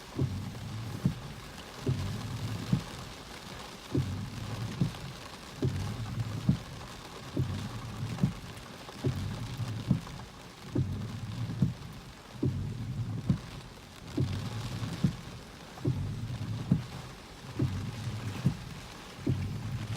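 Rain falling steadily through a thunderstorm, with a regular low thump a little more than once a second.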